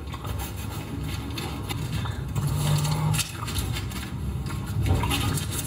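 Serrated bread knife sawing through a thick flatbread sandwich, with an uneven run of rasping scrapes and crackles.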